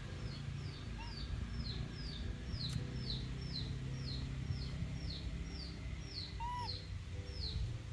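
A bird calling over and over: a short, high, falling chirp about twice a second, steady in pace, with a low steady hum underneath.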